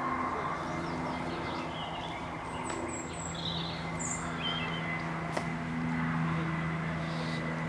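Small birds chirping now and then over a steady low mechanical hum, with a faint click about five seconds in.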